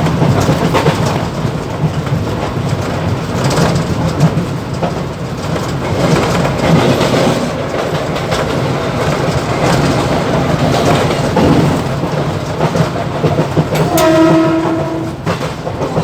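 Mumbai suburban EMU local train running at speed, heard from the motorman's cab: a steady rumble and rattle with wheels clicking over the rail joints. Near the end a train horn sounds one blast of about a second.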